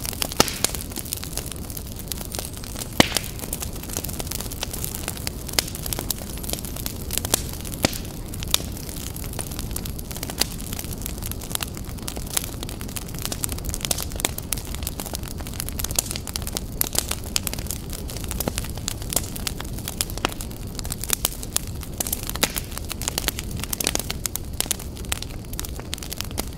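Fire crackling: a steady low rushing sound with frequent irregular sharp pops and snaps.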